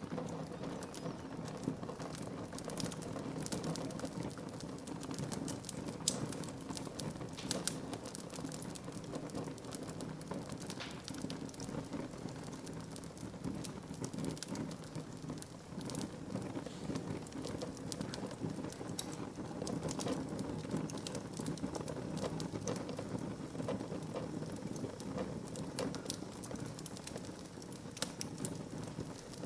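Wood fire burning, with a steady low rush of flame and constant irregular crackles and snaps of burning wood, a few louder pops among them.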